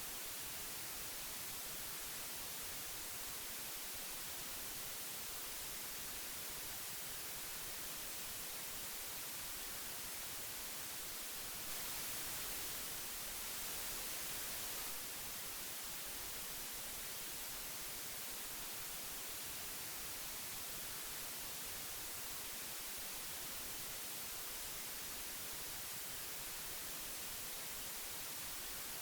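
Steady hiss of old magnetic tape, an even high-pitched noise, growing slightly louder and brighter for about three seconds near the middle.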